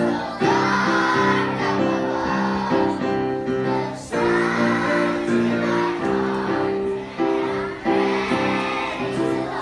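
Children singing together in a group to accompanying music, with breaks between sung phrases.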